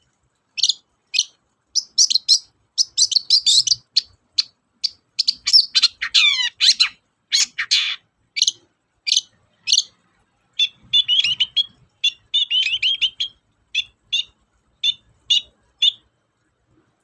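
Long-tailed shrike (cendet) singing: a fast run of sharp, high chirps with quick downward sweeps about six seconds in, then a denser trill of slightly lower notes, the song stopping about a second before the end.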